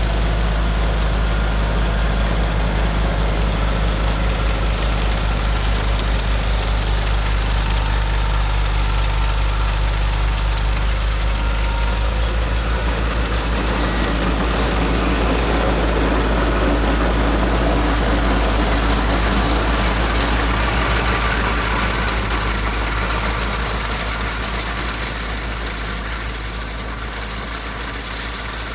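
A tractor engine running steadily with a strong low rumble, growing quieter over the last several seconds.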